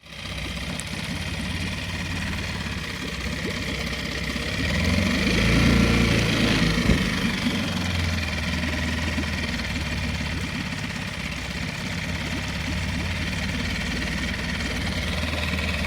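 An engine running steadily, cutting in abruptly, growing louder for a few seconds in the middle, with one sharp knock about seven seconds in.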